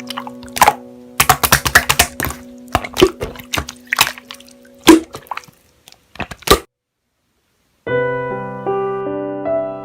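Sticky clicks and crackles of slime being pressed and squished by hand over a held background chord, stopping after about six and a half seconds. After a second of silence, soft piano music begins.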